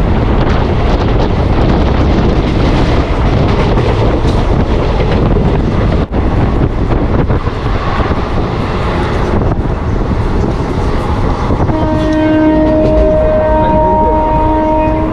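Passenger train running along the track, a loud steady rumble of wheels and wind. About twelve seconds in, a train horn sounds a long, held note.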